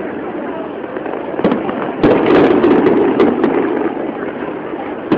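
Fireworks going off: dense crackling with scattered sharp pops, swelling into a louder burst about two seconds in, with a sharp bang near the end.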